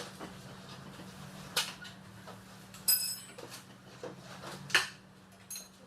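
Metal tools and parts being handled: a few separate clinks and knocks, two of them ringing metallically, about three seconds in and again near the end.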